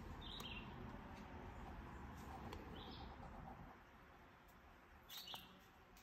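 Three faint, short, high chirps, about two and a half seconds apart, from a bird outside, over soft background noise.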